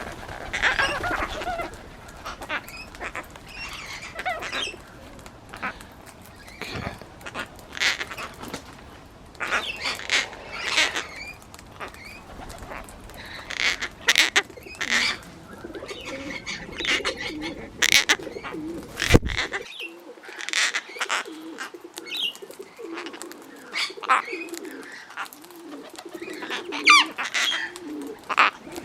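Gang-gang cockatoos calling with short, scattered, creaky calls. From about two-thirds of the way through, a pigeon coos low and repeatedly underneath them, and a few sharp clicks come just before that.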